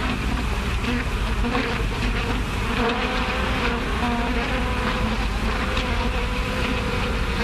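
Swarm of bees buzzing steadily: a dense drone with a wavering hum running through it.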